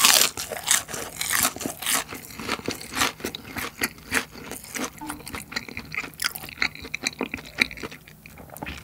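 Seasoned crispy fried chicken being chewed close to the microphone: a loud crunch right at the start, then a steady run of irregular crisp crunches.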